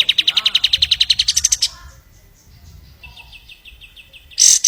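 Kapas tembak songbird singing: a fast, even trill of about a dozen high notes a second that climbs in pitch near its end and stops about one and a half seconds in. After a pause comes a softer run of chirps, then a loud burst of high chirps near the end.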